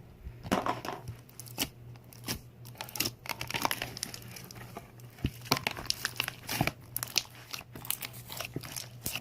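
Slime being squeezed and worked by hand close to the microphone, giving many irregular sharp crackles and pops, over a steady low hum.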